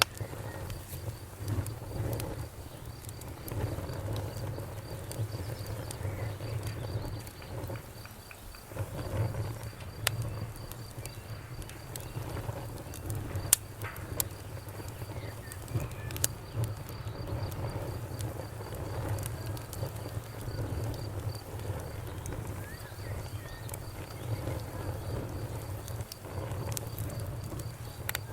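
Fire crackling, with scattered sharp pops over a low steady rumble.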